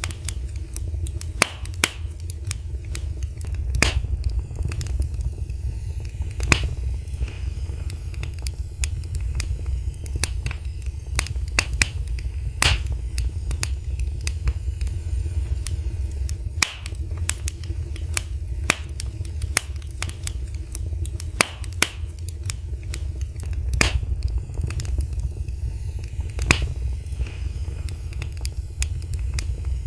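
Wood fire in a fireplace burning steadily: a low rumble of flames with irregular sharp crackles and occasional louder pops from the burning logs.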